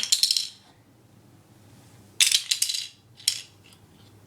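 Small plastic magnetic toy pieces clattering and rattling in a few short bursts, the first right at the start and a longer one about two seconds in.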